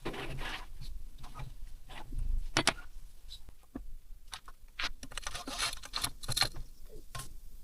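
Small metal engine parts and hand tools clicking, clinking and rattling as they are handled during a strip-down, in scattered short bursts with one sharper click about two and a half seconds in.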